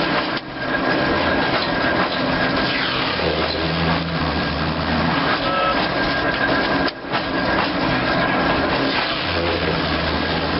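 Old veneer mill running on steam-engine power: dense, steady machinery noise with a constant high whine and a low hum that swells and fades. The sound drops out briefly about half a second in and again about seven seconds in.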